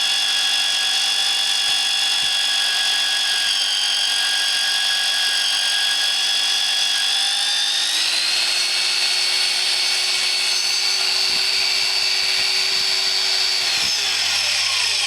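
Magnetic-base drill's electric motor running with a steady whine. Its pitch steps up about eight seconds in, then falls near the end as the motor winds down.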